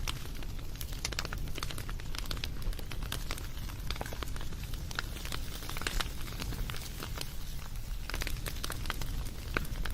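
Wood fire crackling: many irregular sharp pops and snaps over a steady low rumble and hiss of burning.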